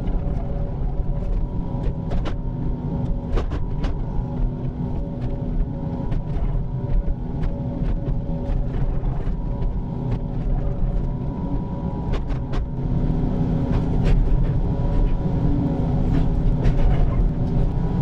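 Excavator engine running steadily while its I-beam grading blade scrapes through a drain ditch, with scattered sharp knocks from the blade and machine. It gets louder about thirteen seconds in.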